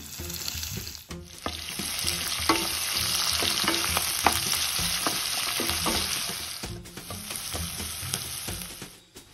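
Onions, garlic, green chillies and tomato wedges sizzling in hot oil in a ceramic-coated pan. A wooden spatula stirring them knocks and scrapes against the pan in short sharp clicks through the middle of the stretch.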